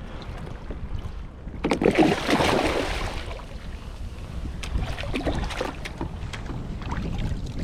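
Wind buffeting the microphone on a kayak at sea, a steady low rumble. About two seconds in there is a louder, rushing, splashy burst lasting about a second, with a few small knocks a few seconds later.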